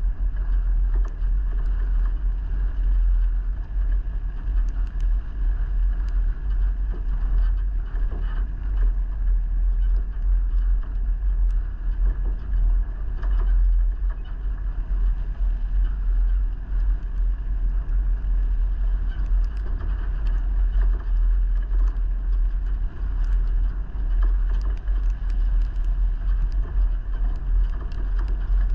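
A vehicle on the move: a steady deep rumble of engine and road noise with a faint hiss over it, and a few light ticks and rattles.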